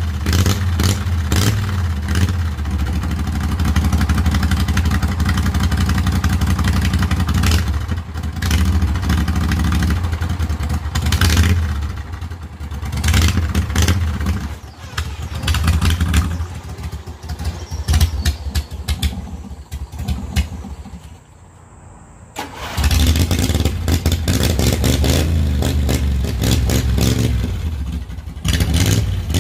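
A vehicle engine running with rising and falling revs; it drops away about twenty seconds in and comes back loud a couple of seconds later.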